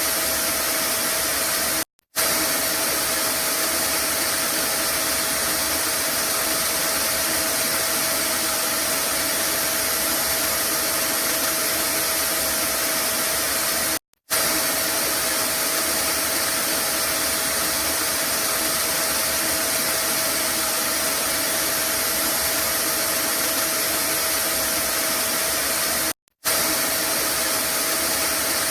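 Vacuum cleaner running steadily, a constant rushing hiss with a steady motor whine in it. The sound drops out for a split second three times, about twelve seconds apart, where the looped recording restarts.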